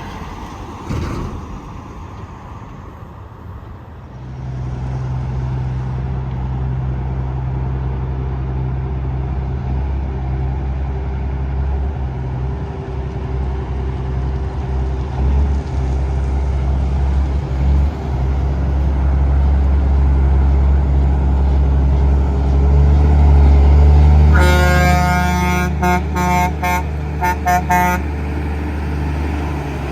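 A semi-truck's diesel engine running and growing louder, then the truck's air horn: one longer blast followed by several short toots.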